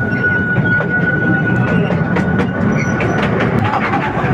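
Narrow-gauge open-carriage tourist train running on its rails: a steady rumble with frequent short wheel clicks, and a thin steady high whine that fades out about halfway through, as the carriages enter a tunnel.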